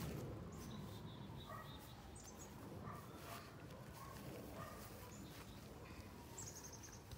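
Faint outdoor ambience with short bird chirps scattered through it.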